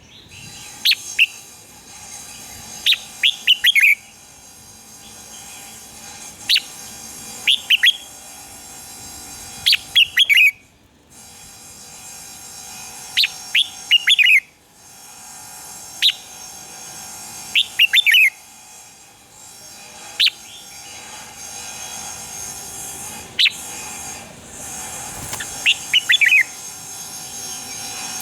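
Red-whiskered bulbul singing: short phrases of a few quick notes, repeated every two to three seconds over a steady background hiss.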